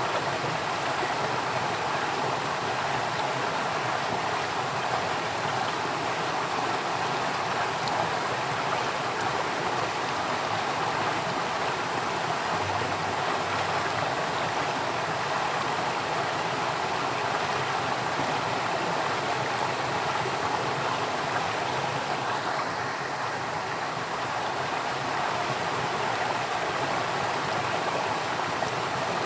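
Water flowing steadily in a stream, an even rushing with no breaks.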